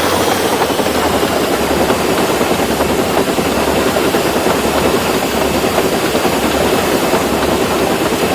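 Jet engine running at full power, a loud steady rushing noise that does not change.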